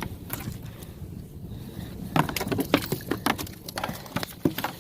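Quick clicks, knocks and rattles of fishing gear handled on a kayak, as a striper is unhooked from a multi-hook rig. A few come near the start and a dense cluster from about two seconds in.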